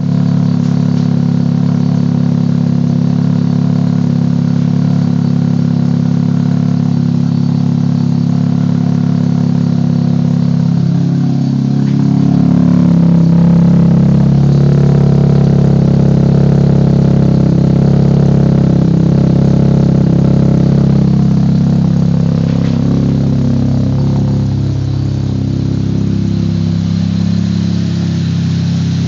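Vehicle engine running through a 4-inch PFS dolphin-style aftermarket exhaust: a steady, deep idle that rises in pitch and gets louder about eleven seconds in, then eases back down near the end.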